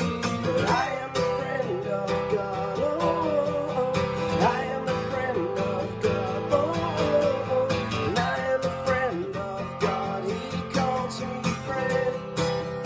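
Worship song: strummed acoustic guitar with a voice singing the melody.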